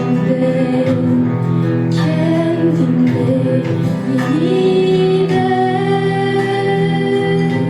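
A young woman singing a Turkish song with held, gliding notes over instrumental accompaniment.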